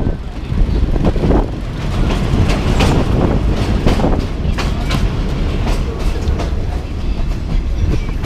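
Moving train: a steady low rumble with the wheels clattering and knocking irregularly over the rails.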